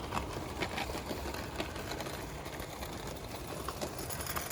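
Live-steam locomotive running with a train of lithographed tinplate wagons: a steady mechanical running sound with irregular clicks as the tinplate wheels go over the rails.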